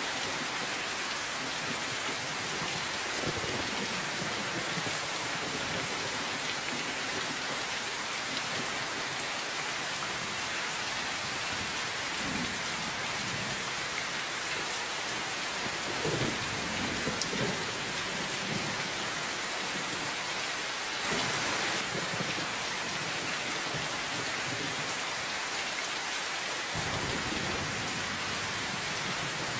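Steady, continuous rain falling, with low rumbles of thunder rolling in now and then, strongest a little past halfway through.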